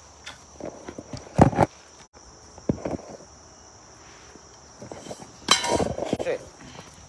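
Footsteps and scattered knocks and clicks outdoors, with a louder scraping cluster about five and a half seconds in, over a steady high chirring of crickets.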